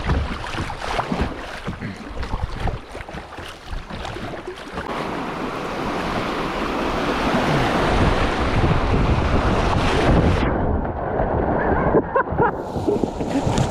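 Loud rushing, splashing water as a kayak runs a river rapid, with knocks and splashes close to the camera and wind-like buffeting on the microphone. About ten seconds in the sound turns suddenly muffled for a couple of seconds before the higher sounds partly return.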